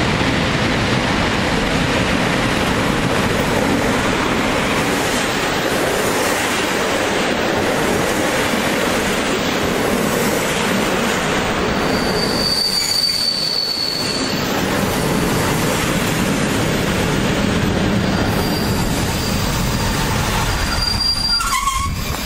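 Passenger train hauled by an EP07 electric locomotive running past the platform close by: a steady, loud noise of wheels on rails. A brief high-pitched squeal comes about twelve seconds in.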